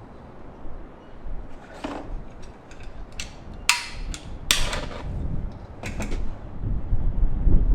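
A few sharp metallic clinks and scrapes from metal parts being handled, the two loudest about three and a half and four and a half seconds in, over a low rumble.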